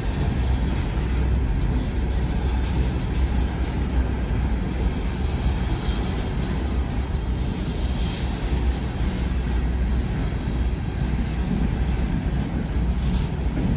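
A train rolling past with a steady low rumble, and a thin, high wheel squeal that fades out over the first few seconds.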